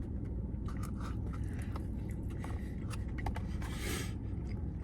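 Someone chewing a sandwich, with small scraping and clicking handling noises, over a steady low rumble. There is a brief hiss about four seconds in.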